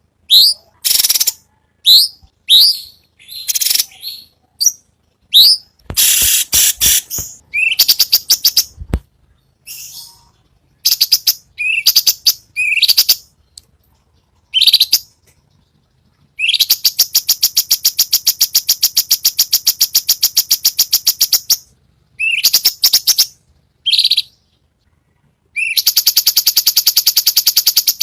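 Cucak cungkok singing loudly: short, sharp upslurred chirps in quick series, broken by two long, very fast rattling trills of rapidly repeated notes, one lasting about five seconds in the middle and another starting near the end. These are the rapid 'besetan' phrases prized in bird-song training recordings.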